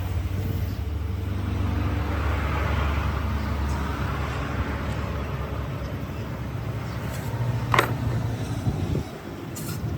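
A motor or engine running steadily with a low hum, with a hiss that swells for a few seconds in the middle. A single sharp knock comes near the end, then a lighter click.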